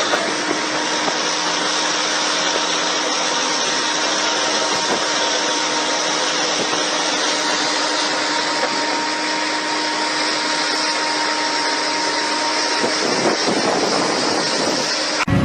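A machine running steadily: a dense, even rushing noise with a faint thin hum that fades out about three-quarters of the way through, then an abrupt change to a deeper engine-like sound right at the end.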